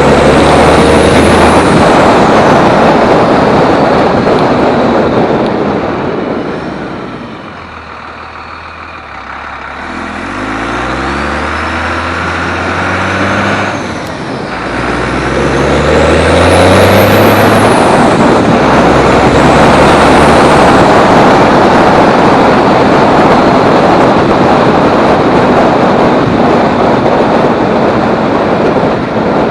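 Tuned 1999 24-valve Cummins diesel accelerating hard through the gears of a five-speed manual: the engine note climbs, drops at a shift about 14 seconds in, and climbs again. A high turbo whistle rises and falls several times over a loud steady rush of noise.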